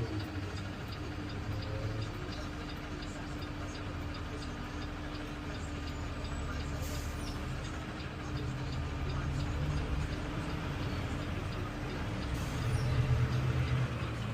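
A garbage truck's engine running steadily with a low rumble and a held hum, over a light regular ticking; it grows a little louder near the end.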